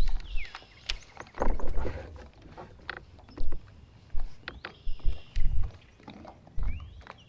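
Fishing from a kayak: a fishing reel whirring in short pitch glides near the start and again near the end, as the lure is cast and retrieved. Between them come irregular knocks and low bumps against the kayak hull.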